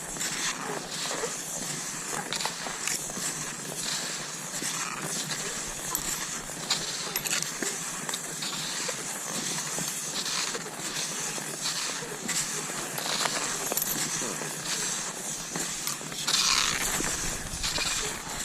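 Cross-country skis swishing and crunching over snow in repeated strides, with scrapes and crackles from the poles, and a louder swish near the end.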